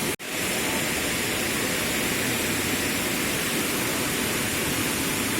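Steady rushing wind noise on the microphone of a motorcycle on the move, with a split-second dropout just after the start.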